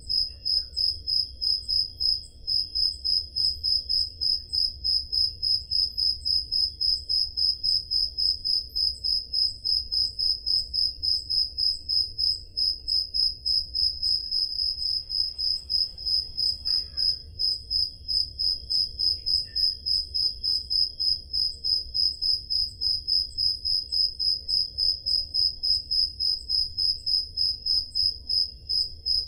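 Crickets chirping in a steady, even rhythm of high-pitched chirps, about three a second, over a faint low rumble.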